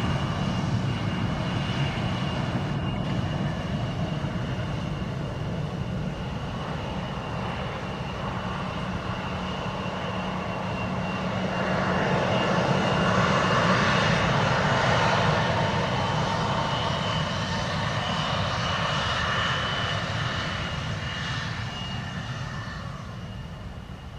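Aircraft engines running, a steady low drone with a thin high whine over it. The noise swells about halfway through and then fades away toward the end.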